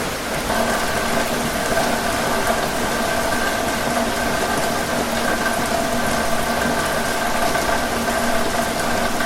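Steady rain hiss, joined about half a second in by a steady, even mechanical hum of several held tones, like an engine or pump idling, which runs on under the rain.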